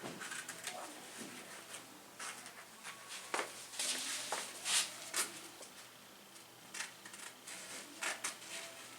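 Serrated-blade scissors cutting out a traced shape in fabric: irregular snips and rustling, with a few louder cuts around the middle.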